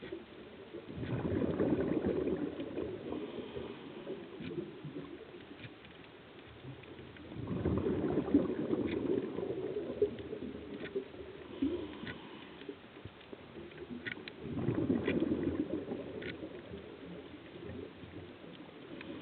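Scuba diver's regulator exhalations: three bubbling bursts about six seconds apart, with faint scattered clicks in between.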